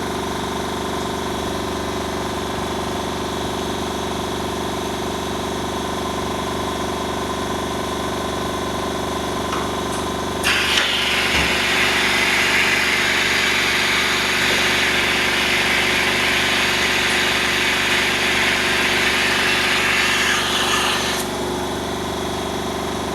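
External vacuum pump of an LCD film laminating machine running with a steady hum. About ten seconds in a loud hiss of air starts suddenly and lasts about ten seconds before stopping.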